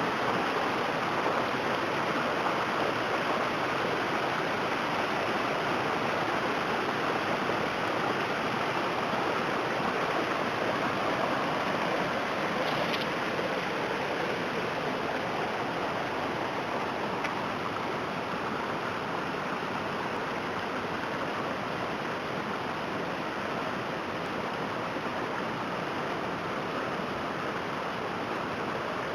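Floodwater runoff rushing steadily, with a constant sound of running water.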